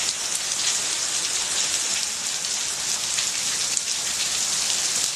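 Heavy rain falling hard and splashing on the ground: a steady, dense hiss with scattered sharper drop splashes.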